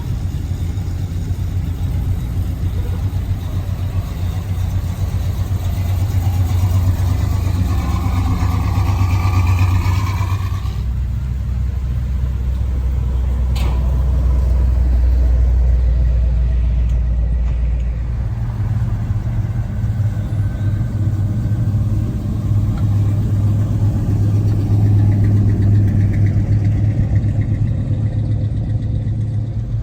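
Car engines idling with a deep, steady rumble. The pitch of the rumble shifts about a third of the way in and again past halfway, as one engine gives way to another. A single sharp click comes near the middle.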